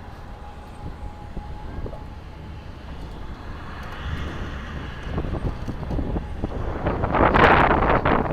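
A motor vehicle's engine and road noise, a steady low rumble that grows louder as it draws close and is loudest about seven and a half seconds in.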